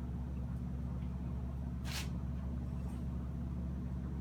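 A steady low hum, with one short hissing noise about two seconds in.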